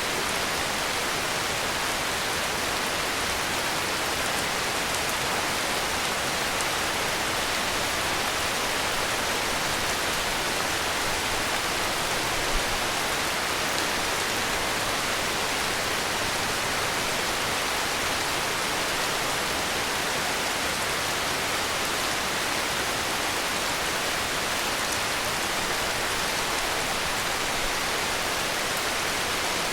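Heavy rain falling steadily: a dense, even hiss of rainfall.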